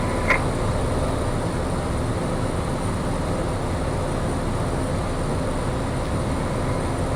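Steady drone of a Piper single-engine light aircraft's engine and propeller, heard inside the cabin.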